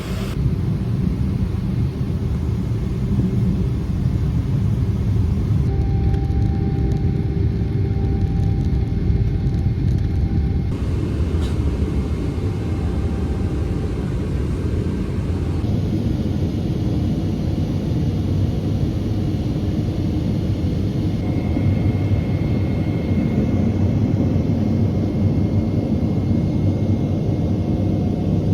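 Boeing 777-300ER cabin noise: the steady low rumble of the jet engines and airflow heard from a passenger seat. Its texture changes abruptly several times, as at cuts between shots.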